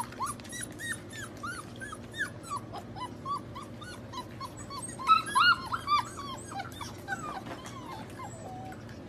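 Golden retriever puppies whimpering and yipping, many short high cries one after another, loudest about five seconds in.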